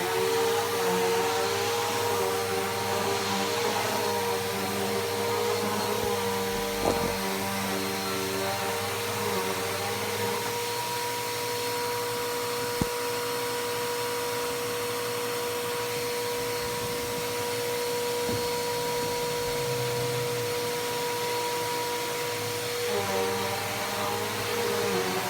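Bissell PowerForce Helix Turbo upright vacuum running with a steady motor whine. Its pitch wavers at first and again near the end and holds steady in between, and two short clicks come through, one about seven seconds in and one near the middle.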